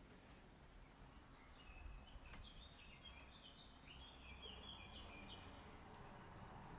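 Faint bird chirping: a run of short high chirps through the middle stretch, over a low steady background rumble.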